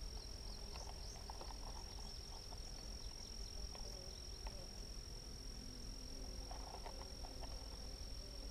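Honeybees buzzing around an open hive: a low, wavering hum that grows more distinct in the second half as bees fly near. Under it runs a steady, high-pitched whine, with a few faint clicks.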